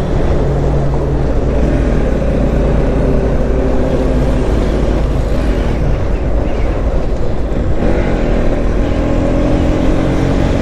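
Motorcycle engine running at road speed under wind rush, its pitch rising and falling a little with the throttle, with traffic around.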